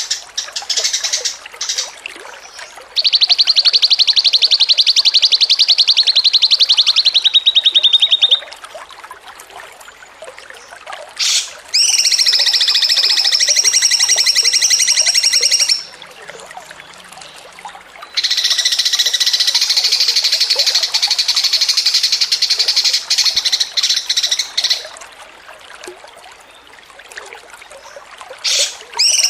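Songbird singing in long, rapid, high-pitched trilling runs. There are three runs of about four to seven seconds each, with short pauses between them, and a fourth starts at the very end. The first run drops slightly in pitch near its end; the later ones are buzzier.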